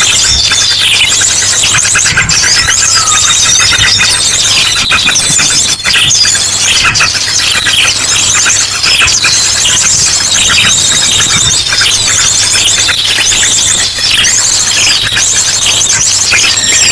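Bird-lure recording: a loud, continuous tangle of small birds' agitated chirps and rapid high trills, mixed with the rapid-fire song of an ashy drongo.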